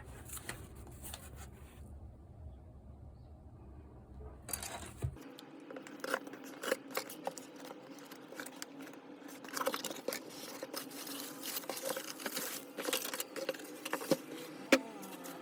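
Hands handling small hard objects on a work surface: scattered clicks, taps and scrapes with some crinkling. A low hum underneath stops suddenly about five seconds in.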